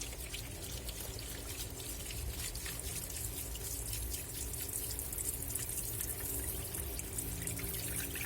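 Water sloshing and splashing in a Black & Decker washing machine tub as the clothes churn round, with a steady motor hum underneath.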